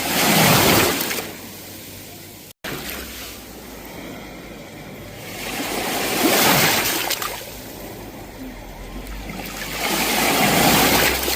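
Sea waves breaking and washing up the shore in three swells, a few seconds apart, each fading back before the next. The sound cuts out for an instant about two and a half seconds in.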